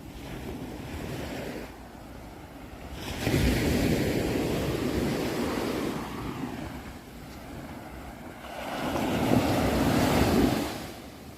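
Ocean waves washing onto a shore: two surges of surf, each swelling up, running a few seconds and fading back to a lower wash of water.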